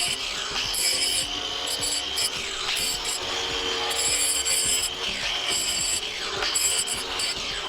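Repeated rasping, scraping strokes of a hand tool working the freshly cut end of a heat-pump water pipe.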